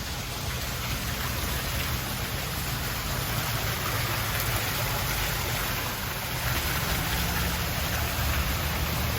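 Water from an indoor waterfall splashing and running in a steady rush, with a low rumble underneath.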